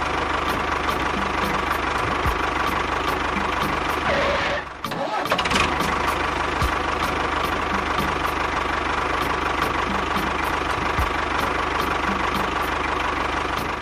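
Engine idling steadily with a regular knocking tick. It dips briefly about four and a half seconds in, then carries on.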